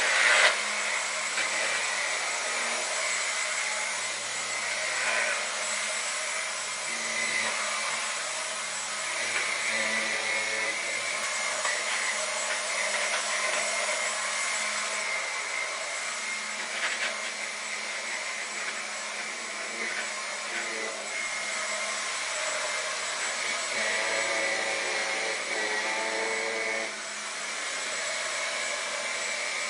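Dyson V10 Animal cordless stick vacuum running steadily with its turbine brush head on, a continuous motor whine over suction noise that swells and dips a little as it works. There is a brief louder burst at the very start.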